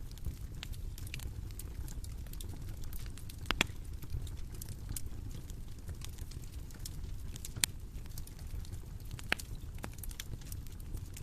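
Bonfire crackling: a steady low rumble of burning wood with scattered small pops, and three sharper snaps spread through it.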